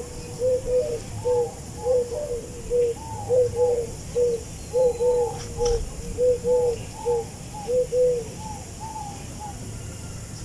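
Birds calling: a rapid string of short, arched low notes with higher notes mixed in between, which stops about eight seconds in; a few higher notes follow near the end.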